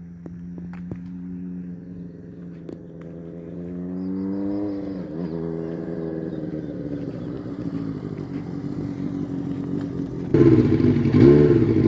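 Honda CBX 750F inline-four motorcycle engine running, its pitch climbing over the first few seconds, dipping sharply, then holding steadier. About ten seconds in it becomes suddenly much louder, with repeated rises and falls in engine speed.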